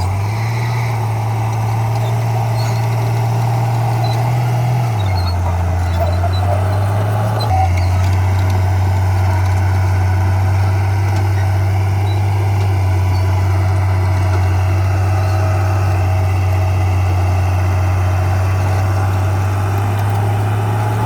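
Crawler bulldozer's diesel engine running steadily, a deep low rumble with a mechanical hum above it. The sound shifts abruptly twice in the first third.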